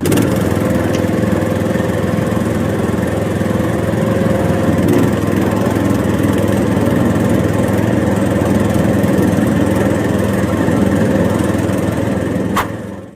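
A small engine running steadily at an even speed, with a short click near the end as it dies away.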